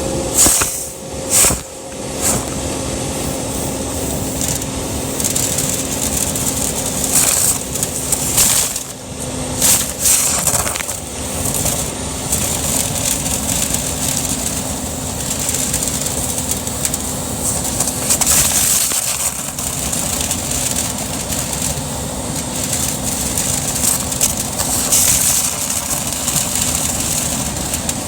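Dryer vent cleaning equipment running in a clogged vent: steady machine noise with a low hum, and bouts of crackling and scraping as packed lint and debris are broken loose, mostly in the first ten seconds.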